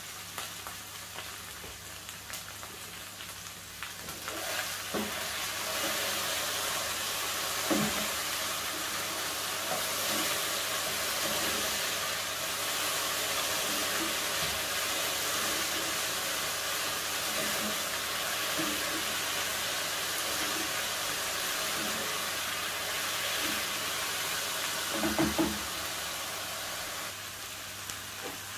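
Diced potatoes sizzling in hot oil in a frying pan, stirred with a plastic spatula that now and then knocks and scrapes against the pan. The sizzle grows louder about four seconds in.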